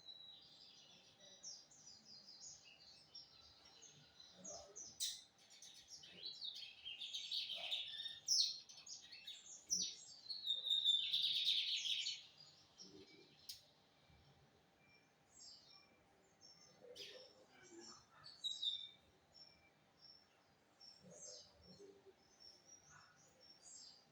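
Lined seedeater (bigodinho) singing: a run of fast, loud song phrases around the middle, then scattered shorter chirps.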